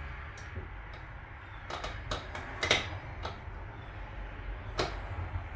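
Scattered light clicks and taps of hand tools and metal parts being handled while working on an outboard motor's lower unit, about seven or eight in all, the loudest a little under three seconds in, over a steady low hum.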